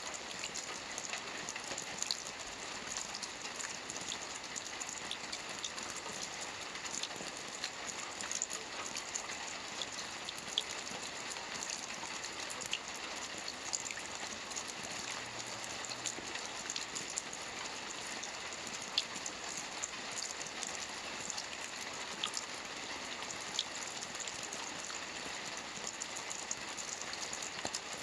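Steady rain falling on water, a dense patter with scattered louder individual drop splashes.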